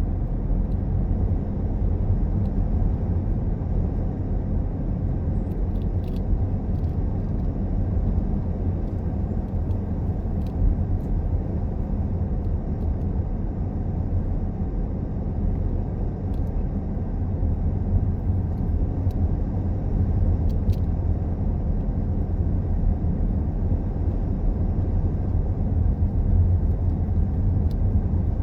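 Car driving along: a steady low rumble of road and engine noise, with a few faint clicks.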